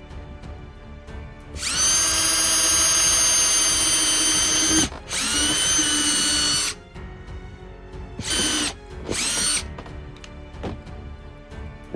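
Electric drill pre-drilling holes into a slice of laurel wood. There are two long runs, each rising in pitch as the motor spins up, then two short bursts near the end.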